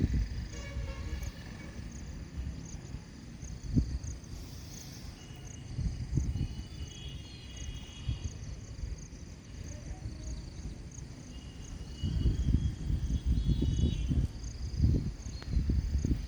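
Insects, likely crickets, chirping in a steady repeating rhythm, with a few higher trills. Beneath them is a low, uneven rumble like wind on the microphone, heaviest near the end.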